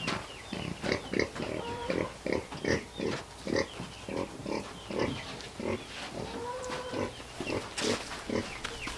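Pigs grunting, a long string of short grunts several times a second.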